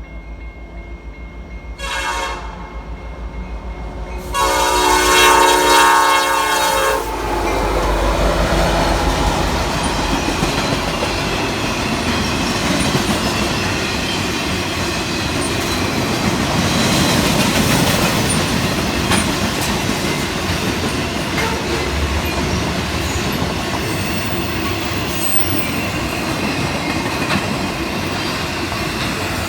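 A locomotive's air horn sounds a short blast and then a longer, louder one, followed by the steady rumble and clatter of the train's wheels and cars rolling past.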